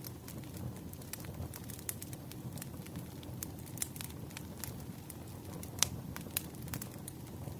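Wood fire crackling: irregular sharp pops and snaps over a low steady rumble, the loudest pops about six seconds in.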